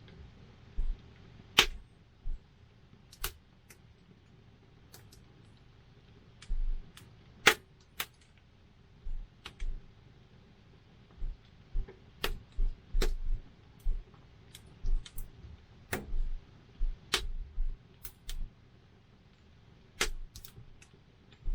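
Wood campfire crackling, with sharp pops at irregular intervals, roughly one a second and sometimes several close together.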